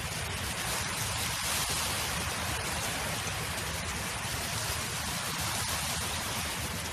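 Wind blowing across an open field: a steady rushing hiss that swells a little about a second and a half in.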